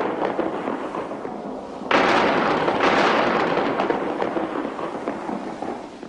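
Cartoon thunder sound effect: a clap of thunder already fading as it begins, then a second sudden clap about two seconds in that rumbles and fades away, the storm arriving after the clouds were seeded.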